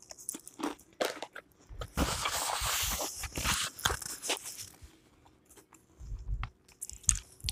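Close-up mouth sounds of chewing crispy battered fried fish, with small sharp clicks. From about two seconds in, for some three seconds, a louder crinkling rustle as a paper napkin is rubbed over the mouth and hands. A few low thumps near the end.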